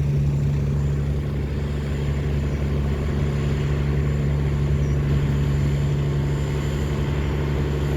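River tugboat's diesel engine running steadily under load as it tows heavy barges: a loud, even low drone with no change in pitch.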